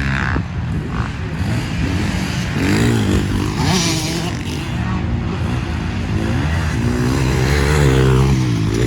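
Motocross dirt bike engines revving, their pitch rising and falling again and again.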